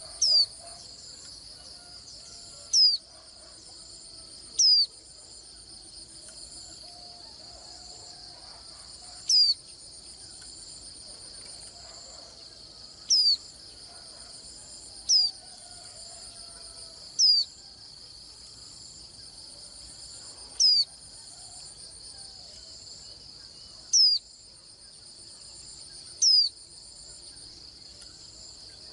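A white-eye giving short, sharp, high chirps that slide downward, one every two to four seconds, over a continuous high, cricket-like trill.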